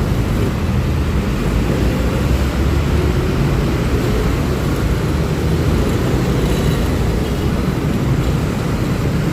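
Steady riding noise from a Honda Click 125i scooter on the move in traffic: a continuous low rush of wind and road with the engine running underneath, without a break.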